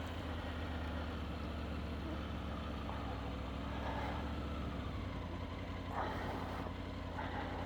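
Triumph Tiger 900 GT Pro's three-cylinder engine running steadily at low revs, near idle; its low note shifts slightly about five seconds in.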